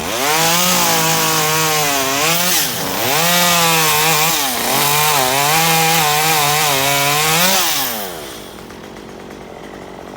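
Two-stroke chainsaw revved to full throttle and cutting through tree wood, its pitch dipping twice as the chain bogs under load. About eight seconds in the throttle is released and the engine winds down.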